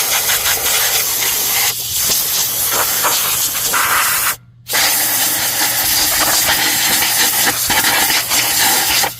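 Compressed-air blowgun blasting air to blow dust out of a forced-air heater's fan and housing: a loud, steady hiss. The trigger is released for about half a second midway, then the hiss starts again.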